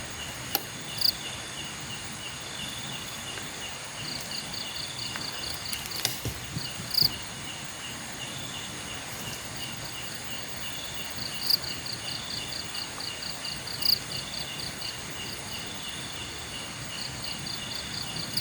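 Night insects chirping: crickets repeating fast, high pulsed trills without pause, with a few louder sharp chirps every few seconds and one brief click about six seconds in.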